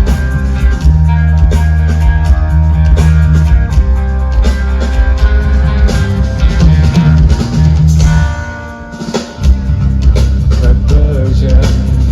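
Heavy rock music with electric guitars and a drum kit. It drops away briefly about eight seconds in, then the full band comes back in.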